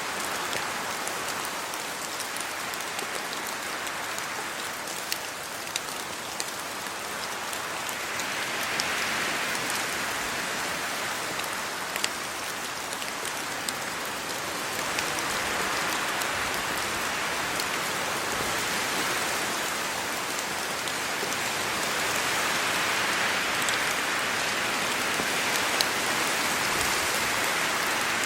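Steady rain falling on trees and a road, a dense hiss with many single drops ticking through it. The rush swells a little a few times.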